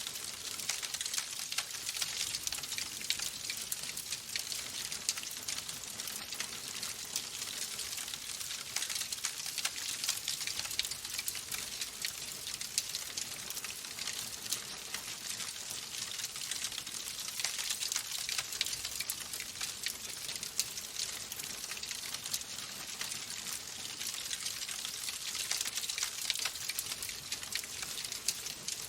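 Wood fire in a fireplace crackling: a dense, continuous run of small pops and snaps over a steady hiss.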